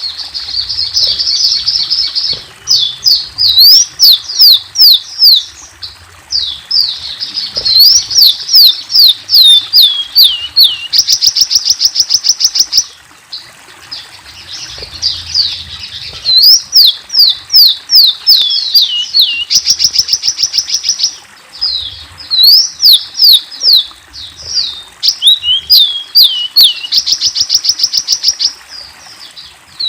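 Sunbird ('kolibri') song: phrases of quick, high, thin notes, many sliding downward, alternating with fast buzzy trills, broken by short pauses.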